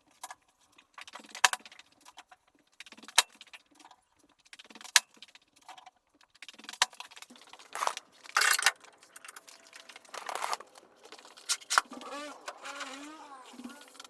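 Carpentry work sounds: sharp knocks or clicks about every two seconds, then longer scraping bursts, with a wavering squeak near the end.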